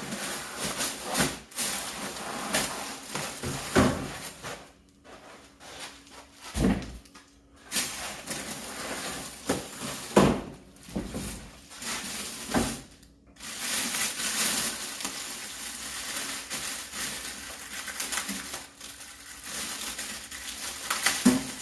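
Packaging being opened and handled: crackly rustling and scraping of packing material, with several sharp knocks as items are moved about.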